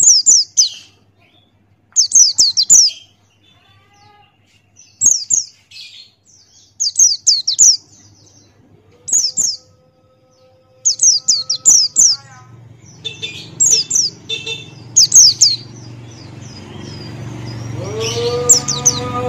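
A pleci Buxtoni white-eye sings in short bursts of rapid, high, downward-slurred notes, a burst every second or two, with scattered sharp clicks. Later a low hum builds up, and near the end a held musical tone with overtones comes in.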